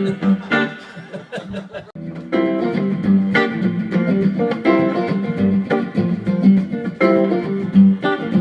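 Live rock-and-roll band: electric guitar picking quietly, then about two seconds in the full band comes in with a loud, repeating guitar riff over bass.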